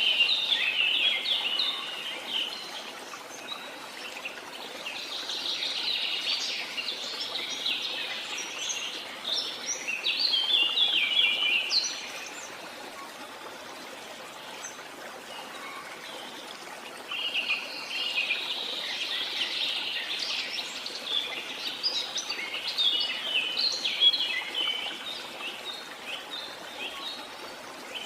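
Birds chirping and calling in busy spells, with a lull in the middle, over a steady rush of falling water.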